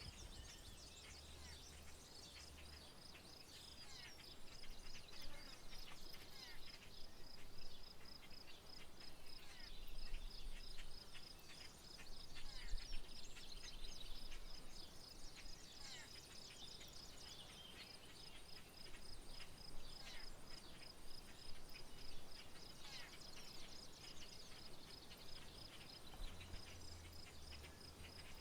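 Wild birds chirping and singing in short calls over a steady, evenly pulsing high insect trill.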